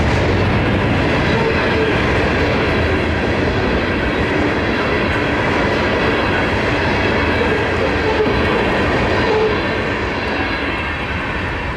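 Norfolk Southern freight train of open-top hopper cars rolling past at close range, a steady loud rail noise that eases off slightly near the end as the last cars clear.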